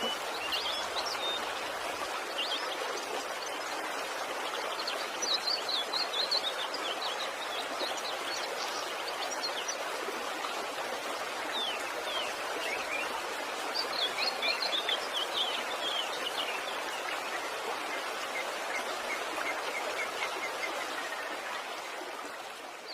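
Steady rush of falling water from a waterfall, with small birds chirping and trilling over it in short bursts. The sound fades out near the end.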